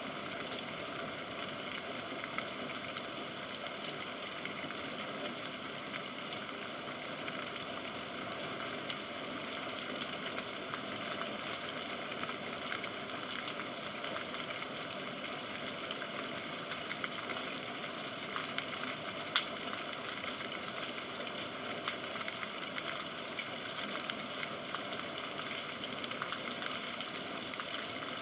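Steady rain falling: an even hiss with the fine patter of many small drops.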